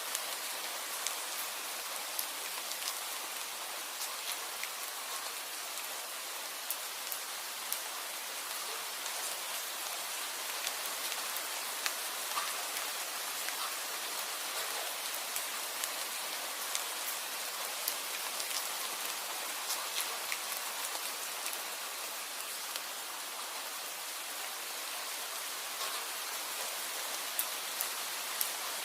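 Steady rain falling, an even hiss with many sharp single drops hitting at irregular moments.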